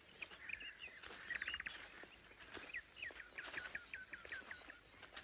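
Faint songbird chirping: a quick trill a little over a second in, then a run of short, sharply falling notes, about five a second, from about three seconds in.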